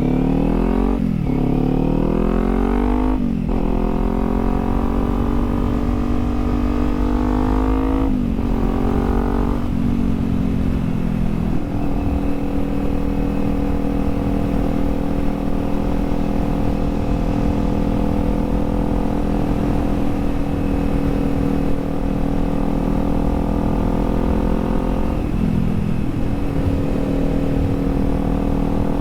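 Kawasaki Z400's parallel-twin engine pulling up through the gears, its pitch rising and dropping at each of several upshifts in the first dozen seconds. It then holds a steady cruising speed, with a brief dip and recovery near the end.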